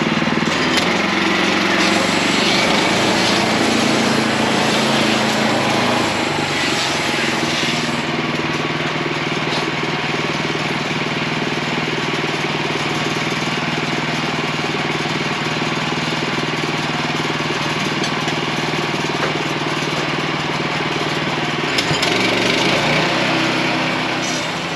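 Portable sawmill's gasoline engine running steadily while the band blade cuts through a log; the sound eases off near the end.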